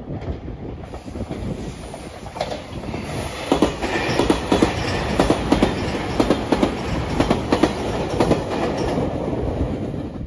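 JR Shikoku 8000-series Shiokaze limited express electric train passing close by, growing louder over the first few seconds, then a long run of rhythmic wheel clatter over the rail joints as its cars go by.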